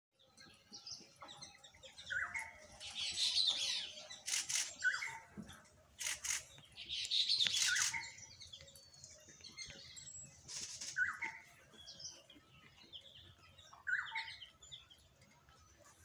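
Birds chirping and chattering: short calls every few seconds, with louder bursts of dense chatter about three and seven seconds in, and a few sharp clicks in between.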